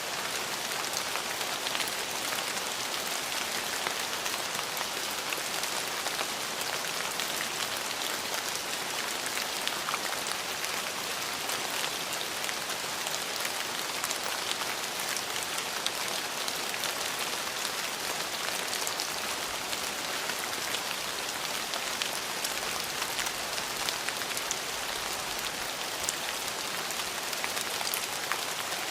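Steady rain falling on hard surfaces, an even hiss with many small distinct drop ticks throughout.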